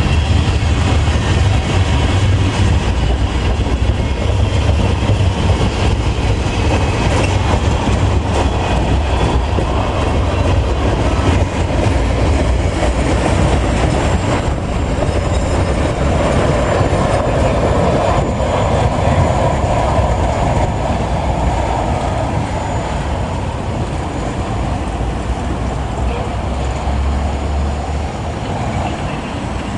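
Freight train cars rolling past on the rails, a steady heavy rumble of wheels on track that eases off over the last several seconds as the end of the train goes by.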